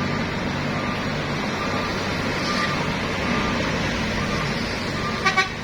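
Steady road traffic noise with heavy vehicle engines running, ending with two quick horn toots.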